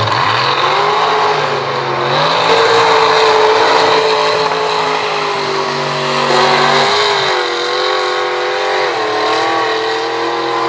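Mega mud truck engine running at high revs, its pitch rising in the first second and then held high, dipping and wavering a few times in the second half.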